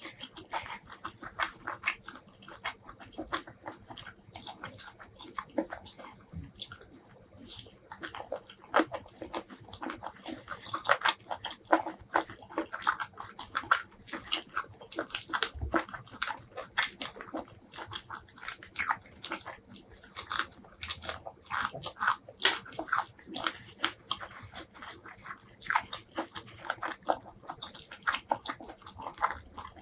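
Close-miked eating sounds: a person biting and chewing seafood, a dense run of quick, irregular clicks and smacks of the mouth.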